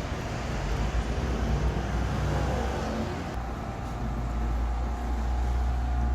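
Volkswagen car engine running with a steady low hum, briefly rising in level and pitch about a second in before settling back. A faint steady whine sits above it.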